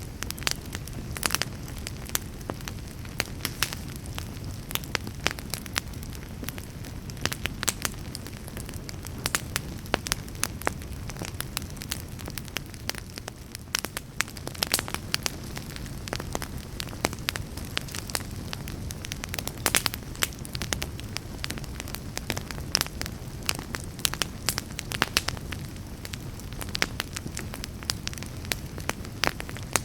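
Wood fire burning in a fireplace, with a steady low rush and frequent irregular crackles and pops, several a second.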